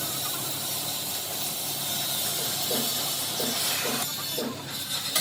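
A steady, fairly loud hiss that thins out about four seconds in.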